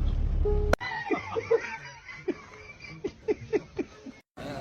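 A steady low rumble cuts off abruptly with a click under a second in. Then comes a run of short, snickering laughs.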